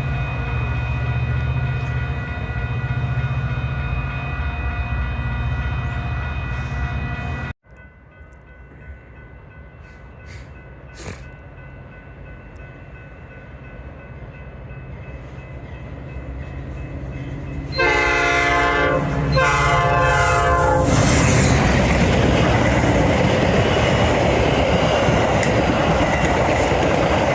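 Metra commuter train sounds in two parts. First a locomotive runs with a steady hum and held tones until the sound cuts off abruptly. Then an approaching train grows steadily louder, sounds two horn blasts about 18 seconds in, and pulls into the station with a loud rumble of wheels on rail.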